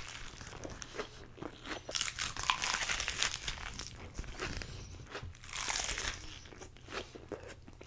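Close-miked eating sounds: crisp crunching bites and chewing of a lettuce-wrapped burger, in two louder spells about two seconds in and near six seconds.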